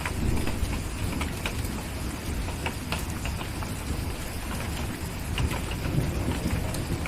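Steady rain with a low rumble of distant thunder, swelling near the start and again near the end. Scattered sharp pops of a crackling wood fire sit over the rain.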